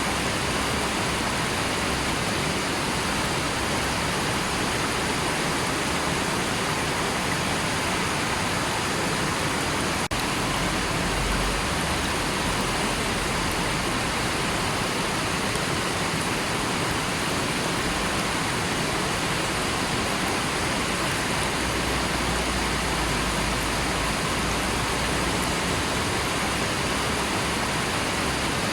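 River water rushing steadily, an even unbroken sound.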